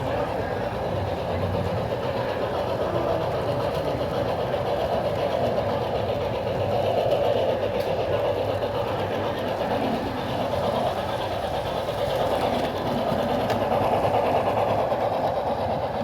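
LEGO model train running along plastic track, a steady clattering from its motor and wheels, with the steam-locomotive sound from its on-board sound decoder mixed in.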